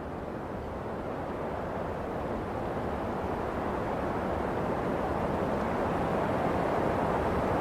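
Wind blowing, a steady rushing that slowly swells louder.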